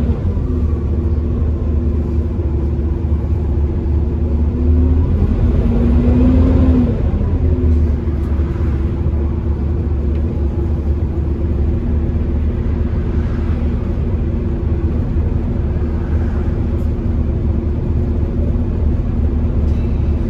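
A bus engine running hard under load, with a heavy low drone and a hoover-like whine over it. The whine rises and then falls once, about five to seven seconds in.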